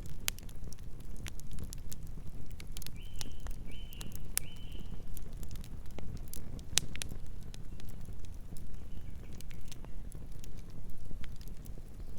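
Campfire burning, with a steady low rumble of flames and irregular sharp crackles and pops of burning wood. Three short high chirps come about three to five seconds in, with fainter ones later.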